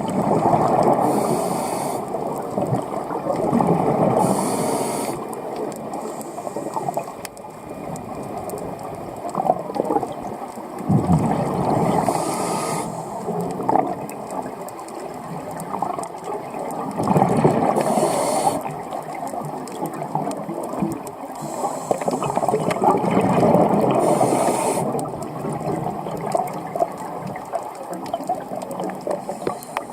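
Scuba diver breathing through a regulator underwater: a short hiss at each inhale, then a long gurgling rush of exhaled bubbles, repeating every several seconds.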